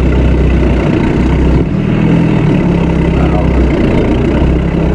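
1989 Volkswagen Jetta's 1.6-litre turbo-diesel engine running steadily under light load as the car rolls slowly, heard loud from inside the cabin.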